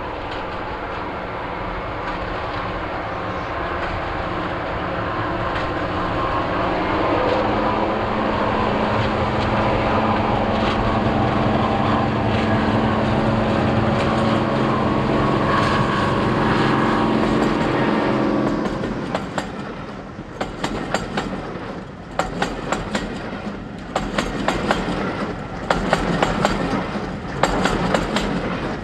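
Class 55 Deltic diesel locomotive, with its twin Napier Deltic two-stroke engines, running loud as it approaches and passes, the engine drone growing until about eighteen seconds in. The engine sound then falls away and the coaches' wheels clickety-clack over the rail joints as the train runs past.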